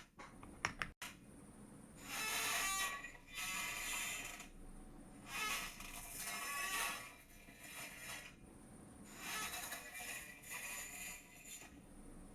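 Chair creaking and squeaking in a string of drawn-out creaks about a second long each, with a few sharp clicks near the start.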